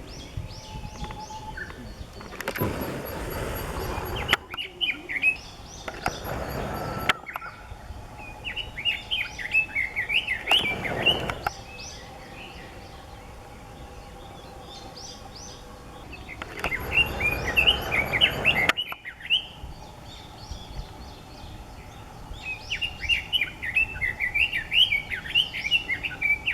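Red-billed leiothrix singing: four phrases of rapid, warbling notes, each lasting a couple of seconds, with pauses between. Several bursts of rushing noise come and go under the song.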